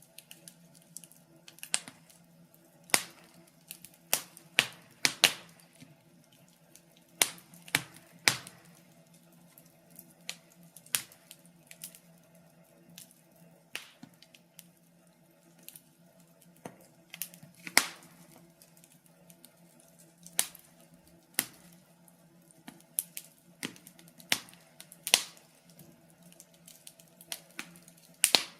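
Logs burning in a fireplace, crackling with irregular sharp pops and snaps, some much louder than others, over a faint steady low hum.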